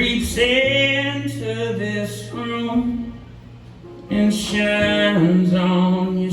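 Live music: a man singing long, drawn-out notes in two phrases, with a short lull near the middle.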